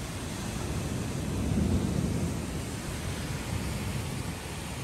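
Heavy rain and hail coming down in a steady rushing noise, with a low rumble that swells briefly about two seconds in.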